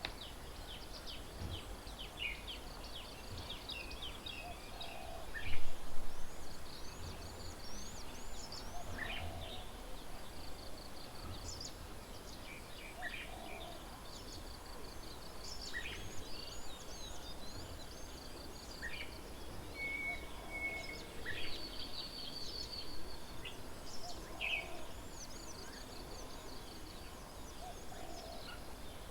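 Mixed outdoor birdsong: many birds chirping and twittering with rapid high trills, over a low call repeated every three to four seconds. A brief louder noise stands out about five and a half seconds in.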